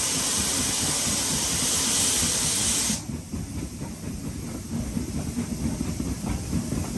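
A loud steam hiss from a locomotive over the rumble of a moving train. The hiss cuts off suddenly about three seconds in, leaving the rumble and clatter of the carriages running on the rails.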